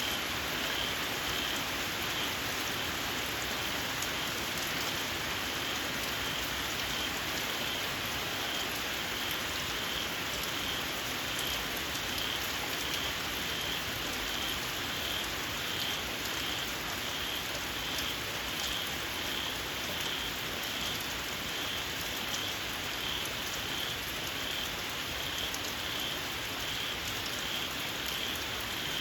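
Steady rain falling, with a small frog giving a short, shrill, high call over and over at an even pace.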